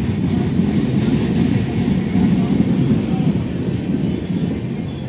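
Train running along the track: a loud, steady low rumble of wheels on rails.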